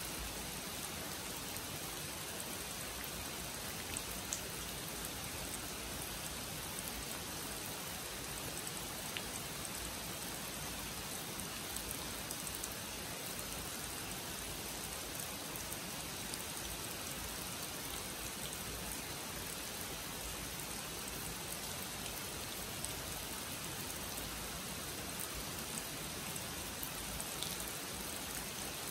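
Steady rain falling on a pond and the leafy trees around it, with a few sharper single drops ticking close by.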